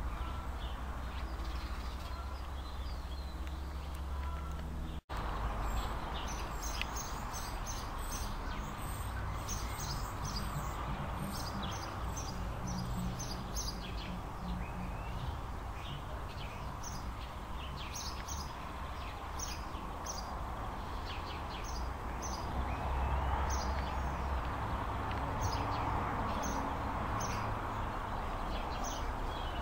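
Small birds chirping in many short, high calls over a steady outdoor background hiss and low rumble; the chirping becomes busier after about six seconds. The sound drops out completely for an instant about five seconds in.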